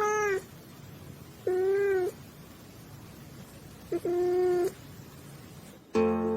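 Domestic cat meowing three times, each a short call of about half a second with a gap of a second or two between them. Guitar music starts near the end.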